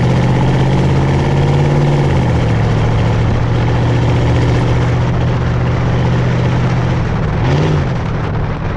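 1997 Ford F150's 4.6-litre Triton V8 idling through a straight pipe, its muffler cut out and replaced with flex pipe. The idle steps down slightly about two seconds in, and the engine gets one quick throttle blip, up and back down, near the end.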